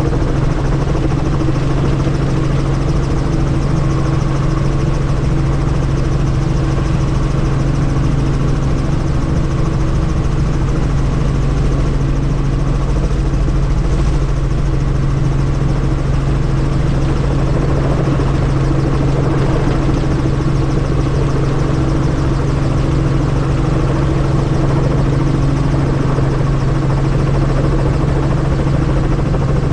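Helicopter running steadily: a loud, constant drone of rotor and engine with an unchanging low hum.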